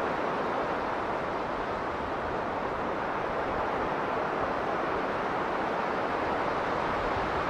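Strong blizzard wind blowing steadily, a continuous even rush with no gusts or breaks.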